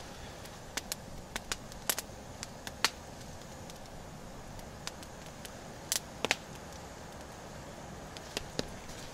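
Campfire crackling, with irregular sharp pops and snaps of burning wood over a steady low hiss.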